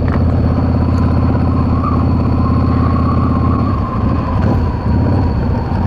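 Yamaha V-Star 650's air-cooled V-twin engine running steadily under way. The engine note eases a little about four seconds in.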